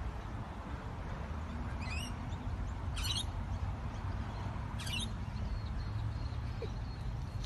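A bird gives three short, high squeaky calls, about two, three and five seconds in, over a steady low background rumble.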